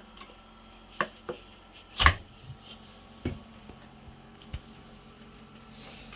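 A few sharp knocks and clicks as a Bodega fridge-freezer combo and its contents are handled, the loudest about two seconds in, over a faint steady low hum.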